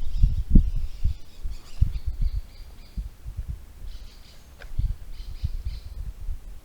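Birds chirping in the background over a string of low, irregular thumps, heaviest in the first few seconds.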